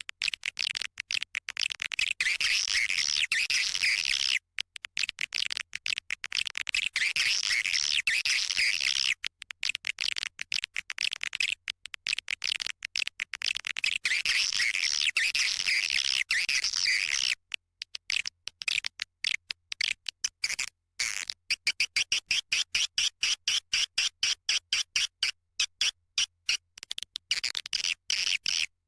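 Recorded swiftlet calling sound (a lure track for swiftlet nest houses): dense, high twittering chirrs in long runs of several seconds, broken partway through by a spell of fast, sparse clicking, then a steadier trill.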